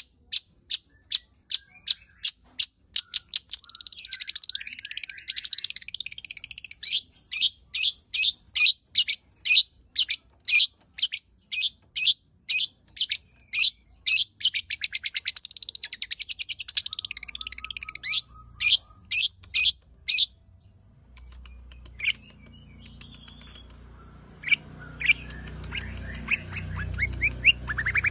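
Long-tailed shrike (cendet) singing: a fast series of sharp, repeated chirps, about three a second, with scratchy warbled phrases woven in. The song stops about twenty seconds in, leaving a few scattered calls over a low rumble.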